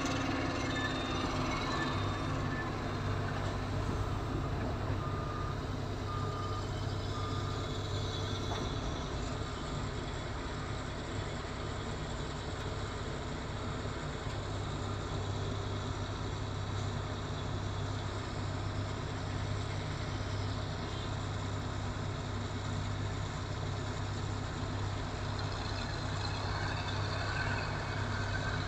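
Steady drone of a large engine running, with three short beeps about five seconds in.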